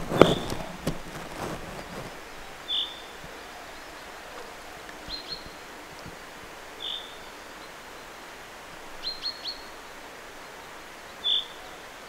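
A small bird calling: short high notes every second or two, some coming in quick pairs or threes. During the first two seconds there is rustling and a few knocks close to the microphone.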